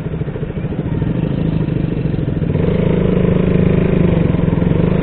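Motorcycle engine running under the rider on the move, picking up in pitch and loudness about halfway through as the bike accelerates.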